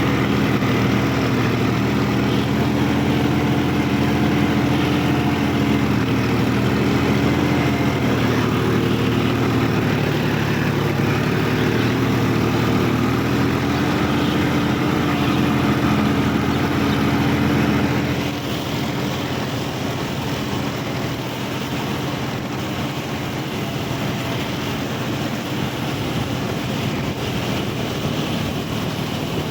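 Sonalika DI 50 Rx tractor's diesel engine running at a steady, slightly wavering pitch; about 18 seconds in it becomes quieter and the steady pitch gives way to a rougher, noisier sound.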